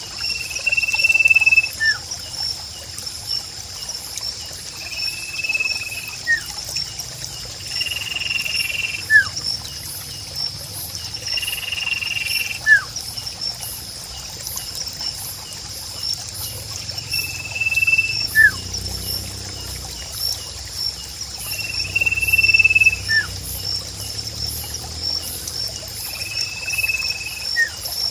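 Sirpu bird calling repeatedly: a held whistle followed by a short falling note, about every four seconds, seven times. A steady high insect trill and a faint trickle of water run beneath it.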